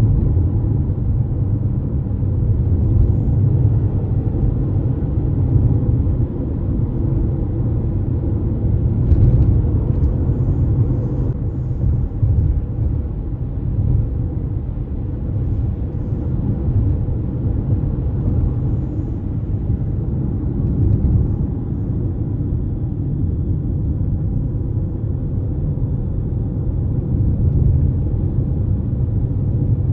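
A car driving along a road with a steady low rumble of road and engine noise.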